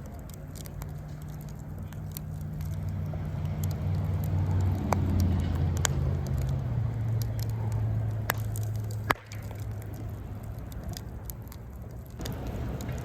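Wood fire crackling, with scattered sharp pops, the loudest about nine seconds in. Under it a low engine hum swells and fades.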